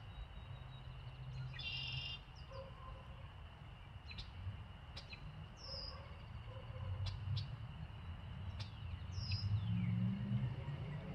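Wild birds calling: short high calls that fall in pitch, a few seconds apart, and one buzzy stacked call about two seconds in, over a steady low rumble that swells near the end.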